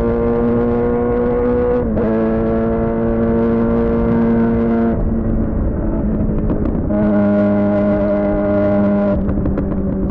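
Suzuki GSX-R600 inline-four running through a Yoshimura R11 exhaust, held at fairly steady revs while riding. The revs dip briefly about two seconds in, ease off for a couple of seconds midway, pick up again and drop back near the end.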